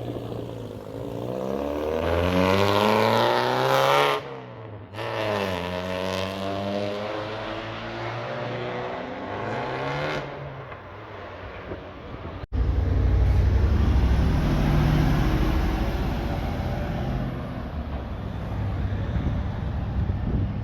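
A car engine accelerating hard, its pitch climbing through the gears with short drops at each shift. After an abrupt cut about twelve seconds in, a louder, deep engine rumble follows.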